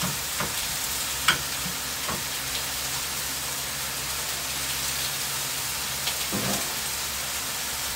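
Thin mayonnaise-coated chicken pieces sizzling steadily on a hot Blackstone flat-top griddle, with a few sharp clicks of metal tongs in the first couple of seconds and one more near the end.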